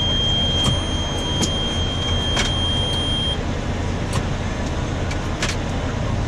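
Tractor engine running steadily, driving a rear-mounted snowblower being tried out, with scattered sharp clicks. A thin high whine stops about three seconds in.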